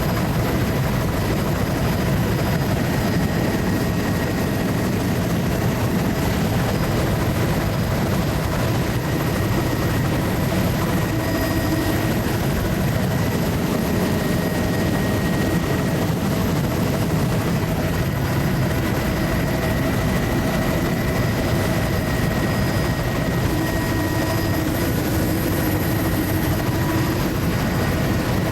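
Steady engine and airflow noise of a low-flying survey aircraft, heard from inside the cabin, with a constant deep rumble and a few faint steady tones above it.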